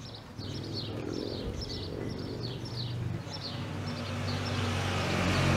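A bird chirping over and over, a short falling chirp roughly twice a second, fading out a little past halfway. Under it a low steady hum slowly grows louder.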